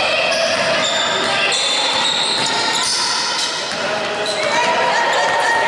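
Sounds of a basketball game in a gym: many short, high sneaker squeaks on the court floor, changing pitch every fraction of a second, with a ball bouncing and indistinct shouting voices echoing in the hall.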